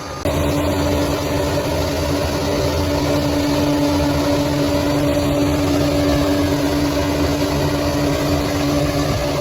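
Bulldozer's diesel engine running steadily, a low rumble under a constant hum. The sound jumps louder abruptly just after the start, then holds even.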